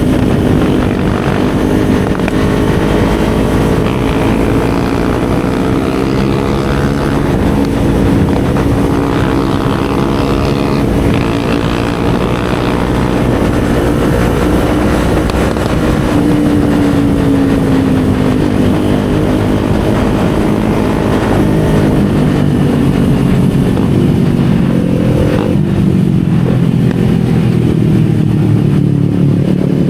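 Kawasaki Z400's parallel-twin engine running steadily under way, its note rising and falling gently with the throttle and settling lower in the last few seconds.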